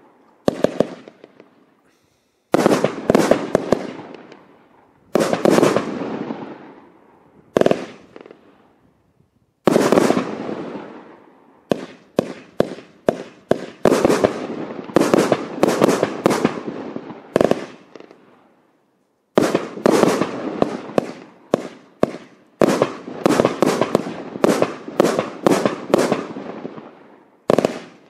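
Riakeo Peking Opera 1, a 51-shot 30 mm fireworks cake, firing: sharp launch and burst reports, each dying away over a second or two. The shots come singly with short pauses at first, then in quicker runs of several shots a second in the second half.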